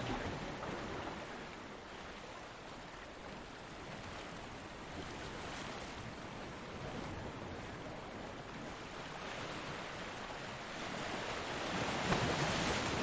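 Ocean surf: a steady wash of breaking waves that swells and ebbs slowly, with a louder wave breaking near the end.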